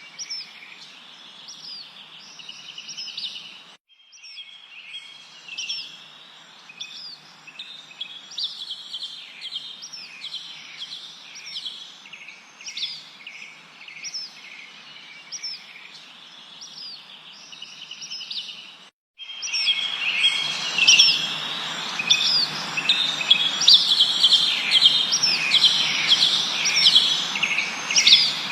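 Several birds chirping and whistling in quick, overlapping short notes over a steady background hiss. The sound drops out briefly twice, near 4 seconds and about 19 seconds in; after the second break the chorus and the hiss are clearly louder.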